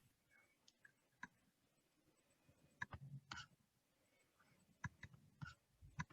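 Near silence: room tone with about half a dozen faint, scattered clicks.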